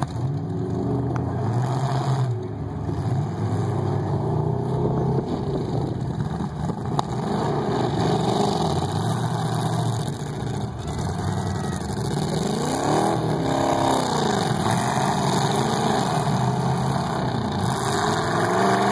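Several demolition derby cars' engines revving and running, their pitch rising and falling again and again as the cars drive and shove one another.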